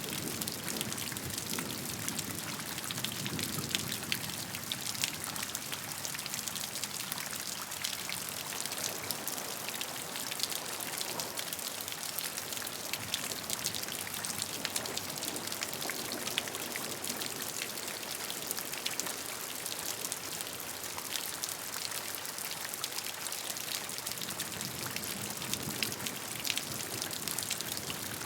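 Steady rain with many individual drops pattering and ticking on a surface.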